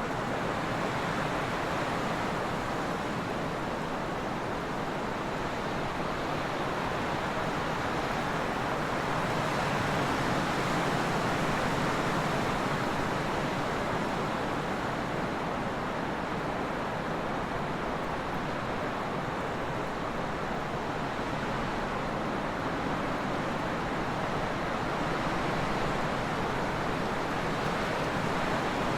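Steady trade wind blowing, a continuous rushing noise that swells gently and eases again.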